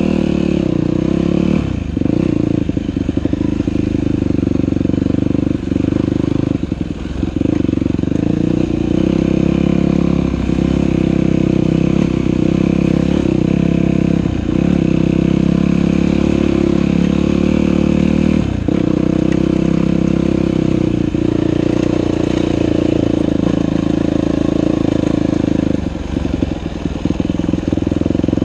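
Dirt bike engine running hard along a trail, its revs dipping briefly and climbing back up several times as the throttle is eased off and opened again.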